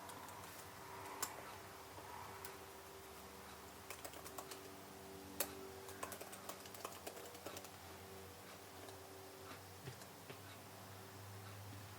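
Computer keyboard typing: a few scattered keystrokes, then a quick run of key clicks in the middle, then occasional taps, over a faint steady hum.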